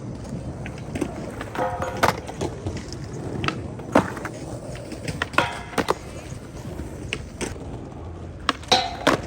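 Skateboard rolling on a hard surface, its wheels making a steady rumble, with sharp clacks of the board hitting the ground about five times.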